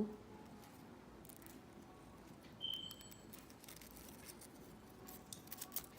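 Quiet handling of a potted Dracaena plant: faint scattered clicks and light taps, bunching together near the end, with one brief high squeak about two and a half seconds in.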